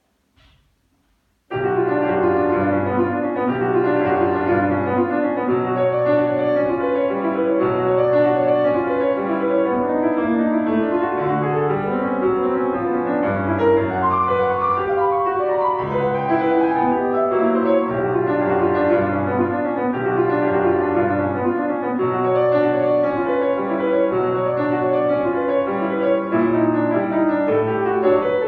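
Solo piano playing a fast classical piece with dense, busy figures, starting about a second and a half in and running on without a break.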